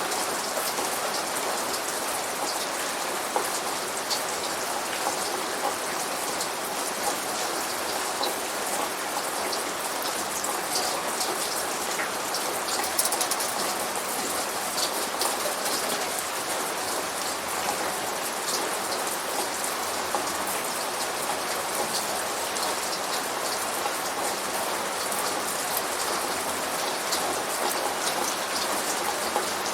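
Steady rain shower falling and splashing onto surfaces, with many small drop strikes pattering through a constant hiss; the rain-effect sound of the Rainforest Cafe.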